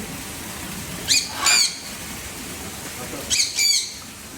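A bird calls twice in pairs: two short, loud, high calls about a second in and another two about three and a half seconds in, over a steady background hiss.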